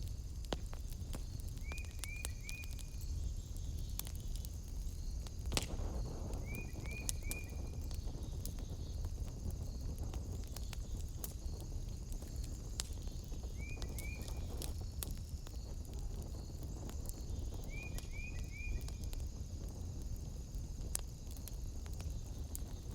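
Wood fire crackling, with scattered sharp pops, one louder about five seconds in, over a steady low rumble. Short chirps in quick groups of two or three come four times, over a steady high night hiss.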